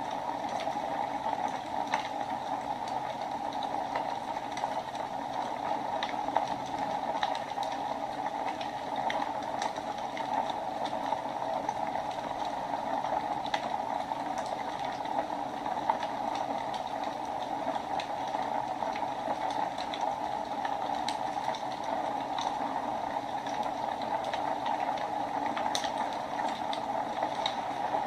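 Wood fire burning in a fireplace: a steady rushing hiss with frequent small, sharp crackles and pops scattered through it.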